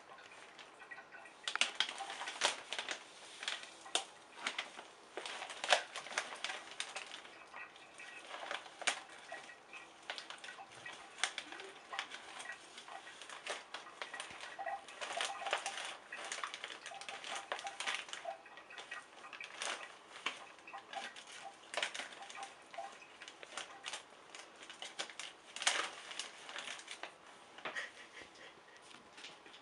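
A cat sniffing at and nosing spices, with close, irregular rustling and crackling and many light clicks.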